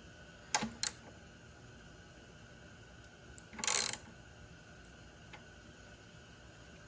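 Quiet room tone with a faint steady hum, broken by two sharp clicks close together about half a second in and a short scuffing noise about three and a half seconds in: small handling noises.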